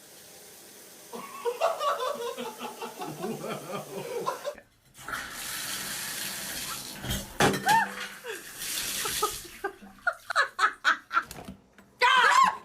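Laughter, then water rushing for about four seconds, followed by clicks and more voice sounds near the end.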